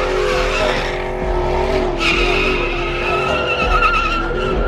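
Truck doing a burnout: engine held at high revs while the spinning rear tires squeal, the squeal starting sharply about halfway through and holding steady.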